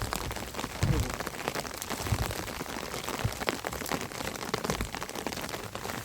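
Steady rain falling, with many individual drops striking close by and a few dull low thumps.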